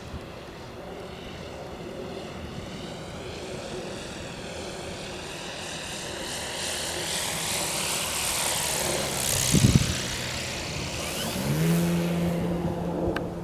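Large electric Extra 330LX model aircraft coming in with its motor cut, the rush of air over it growing louder as it nears, and a short low thump about two-thirds of the way in. About a second and a half later the electric motor and propeller spin up and settle into a steady hum.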